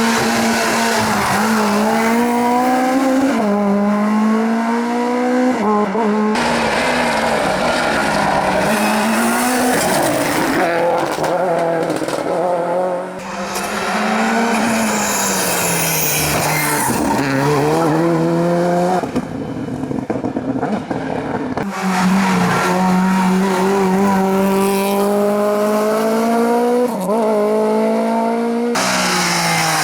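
Racing car engines at full throttle, revving up and dropping back with each gear change, with tyre squeal; the sound changes abruptly several times as it cuts between different cars.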